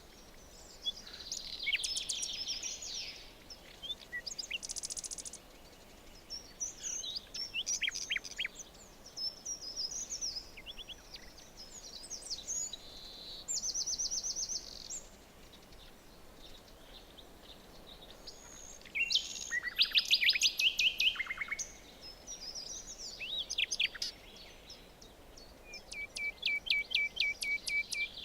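Several wild birds singing and calling in a forest: a busy mix of chirps, whistles and fast trills, with a faint steady hiss of background ambience beneath.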